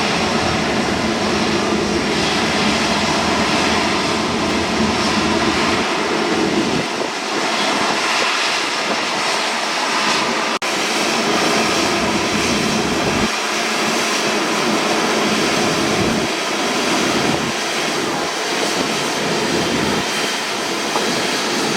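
Jet airliner engines running loud and steady. About ten seconds in the sound drops out for an instant where the recording cuts, then the engine noise carries on.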